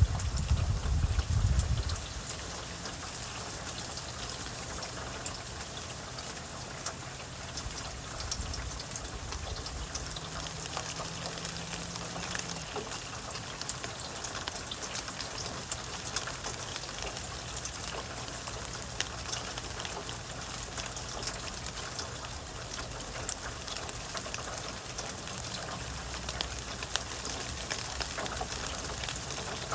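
Steady rainfall, with many individual drops ticking sharply on nearby surfaces. A low rumble, louder than the rain, fades out in the first two seconds.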